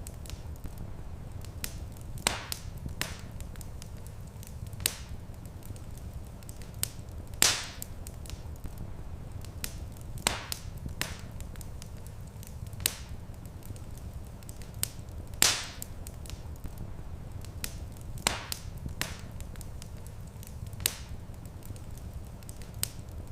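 Wood fire crackling in a fireplace: sharp, irregular pops every second or so, a few much louder than the rest, over a steady low rumble.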